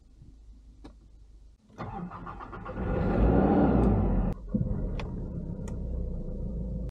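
2005 Nissan Pathfinder engine being started. The starter cranks for about a second, the engine catches and revs up loudly, then drops suddenly to a steady idle at about 1000 rpm.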